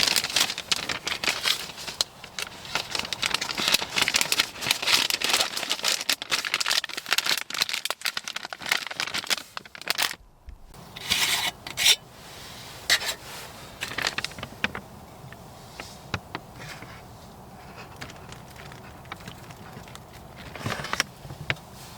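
Crinkling and rustling of plastic MRE ration pouches being handled and opened, dense for about ten seconds, then a short pause and scattered crinkles and clicks.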